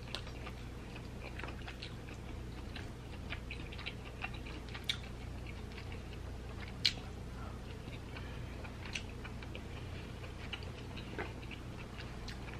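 A person chewing king crab meat quietly, with scattered small sharp clicks, the sharpest about seven seconds in.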